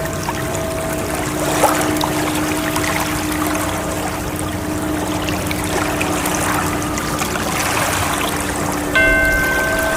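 Ocean waves washing steadily, mixed with soft held tones. About nine seconds in, a new bell-like tone sounds suddenly and rings on.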